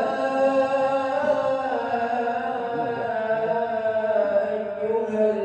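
A man's solo voice chanting an Islamic recitation in long, drawn-out notes that bend slowly in pitch.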